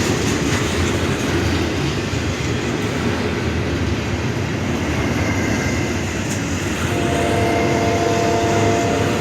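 A train rolling past at a grade crossing, a steady rumble of wheels on the rails. About seven seconds in, a steady chord of several held notes begins, heard as the horn of another approaching train.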